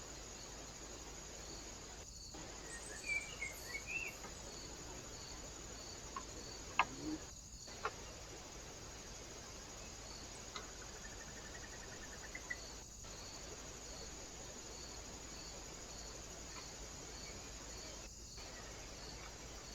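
Cricket chirping softly and steadily, about three pulses every two seconds, over a background hiss. A few short bird chirps come about three seconds in, and a couple of sharp clicks come midway.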